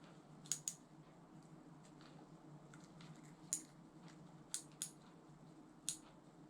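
Small hard clicks and taps, six in all at irregular spacing, two close together near the start and a pair just after the middle, from small parts of a baitcasting reel being handled during cleaning. A faint steady low hum lies underneath.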